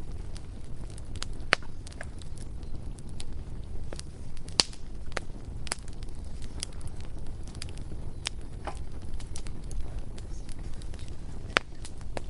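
Bonfire crackling: irregular sharp pops and snaps over a low steady rumble, with a few louder pops standing out, about a second and a half, four and a half and eleven and a half seconds in.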